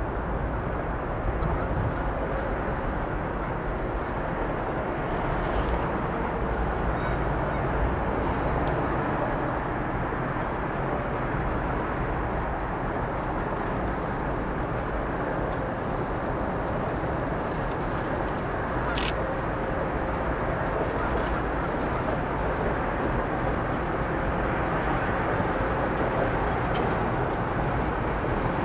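Steady distant rumble of a freight train led by two diesel locomotives crossing a steel railroad bridge, with no clear changes as it draws closer.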